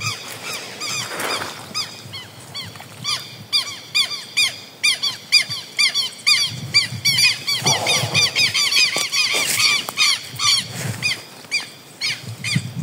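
Birds giving many short squeaky calls in quick succession, several a second and overlapping, with a few low dull thuds, like steps on mud, in the second half.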